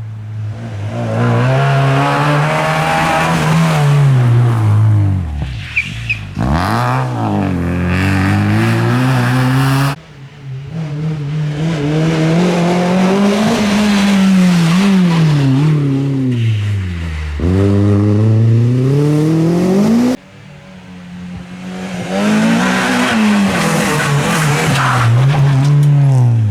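Rally cars at full stage speed, engines revving hard, the pitch climbing and dropping through gear changes and lifts. Three separate passages, cut sharply apart at about a third and two-thirds of the way through.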